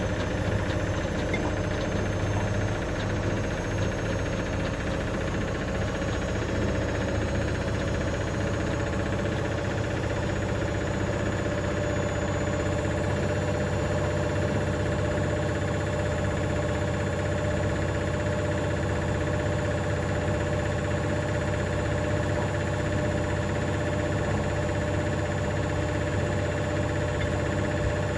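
Hoover DynamicNext DXOA410C3 washing machine on a spin cycle: a steady motor and drum drone with a rattle, which the owner traces to a £1 coin trapped under the heating element.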